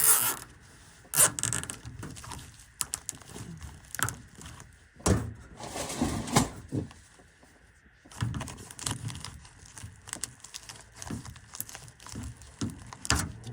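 Rustling, crinkling and sharp clicks of a zip tie being wrapped and cinched around flexible duct on a furnace return collar.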